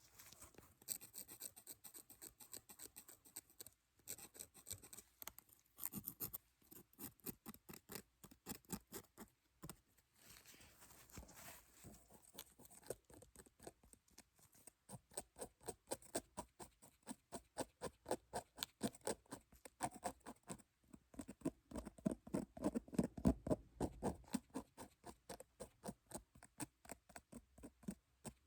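Rapid light tapping and scratching close to the microphone, a fast run of small clicks several times a second, louder and fuller for a few seconds near the end.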